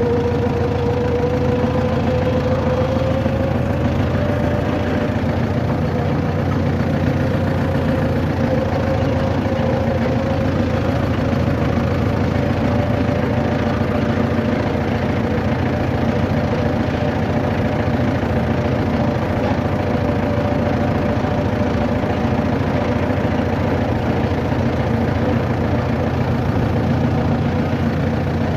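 A vehicle engine running steadily with a low rumble and one held tone that drifts slightly up in pitch.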